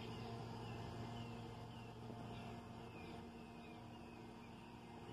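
Faint outdoor ambience: a bird repeats a short falling chirp about twice a second over a steady low hum.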